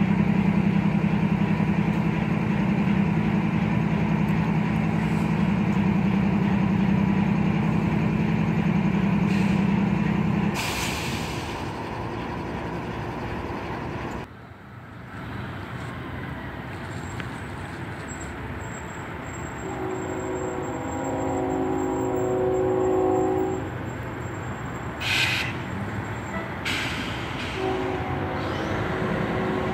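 CSX diesel freight locomotives running with a steady low engine drone, which fades about a third of the way in. A multi-tone locomotive air horn then sounds a long blast about two-thirds in and again near the end.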